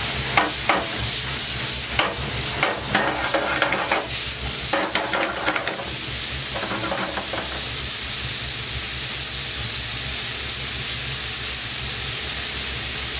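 Bacon lardons frying in butter in a pan with a steady sizzle. For about the first six seconds a utensil knocks and scrapes among them, then only the sizzle goes on.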